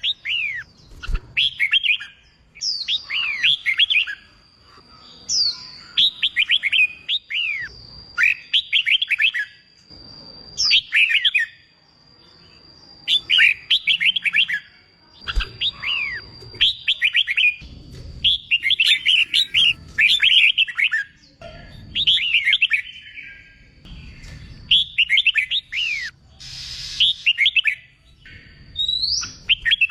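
Red-whiskered bulbul song: short, fast, chattering phrases of quick downward notes, repeated about every two seconds. A thin, steady high tone runs beneath much of the middle of it.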